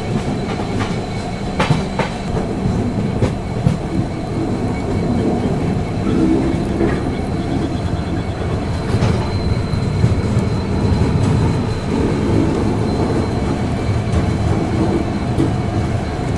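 Passenger train coach running into a station on arrival: wheels clicking over rail joints over a steady rumble, with a thin high whine held through most of it.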